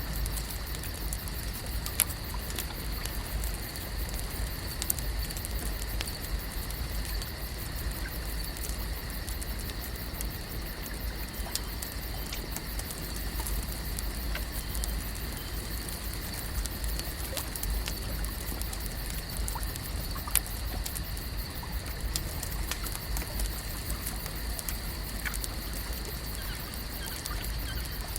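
Lakeside nature ambience: a steady bed of outdoor noise with a low rumble and a constant high, even hum, dotted with scattered small clicks and ticks.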